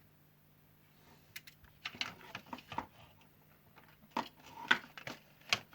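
Irregular light clicks, taps and clatter of hands working with test probes and small parts on an LED lamp board, starting about a second in, over a faint steady low hum.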